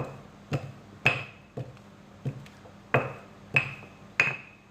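A series of about eight sharp knocks of a kitchen utensil on a hard surface, roughly one every half to two-thirds of a second. Several of them leave a short, high glassy or metallic ring.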